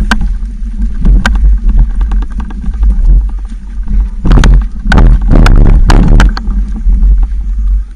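Wind buffeting the microphone as a steady deep rumble, with sharp rattles and knocks from a bicycle riding over rough ground. The knocks cluster into a louder rattling run about halfway through.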